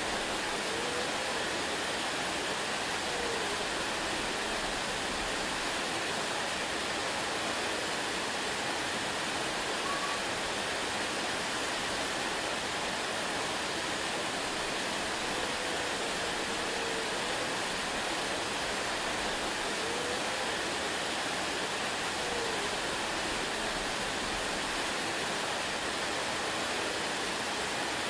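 Waterfall rushing in a steady, unbroken hiss of falling water, with a few faint short rising-and-falling notes now and then.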